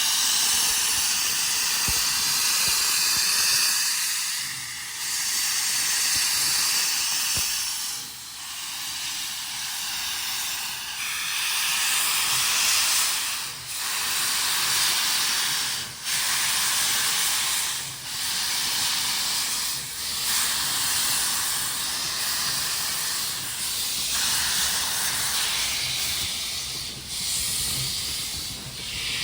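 Steam locomotive letting off steam: a loud, steady hiss broken by brief dips every couple of seconds.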